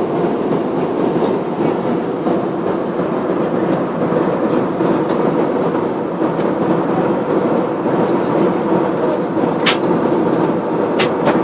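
Airliner cabin noise heard from a window seat: the steady rushing drone of engines and airflow, with a few sharp clicks near the end.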